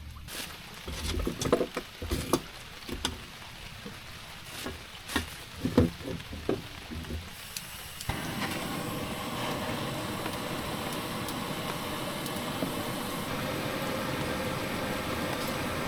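Scattered knocks and clatters of handling for about eight seconds, then an abrupt change to the steady hiss of heavy rain falling.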